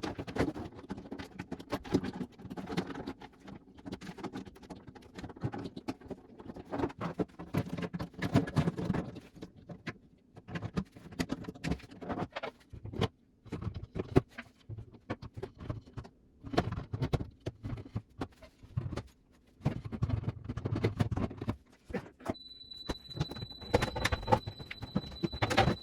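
Refrigerator parts being handled and fitted back on by hand: irregular clicks, knocks, scrapes and rustling. A steady high-pitched tone starts about 22 seconds in and keeps going.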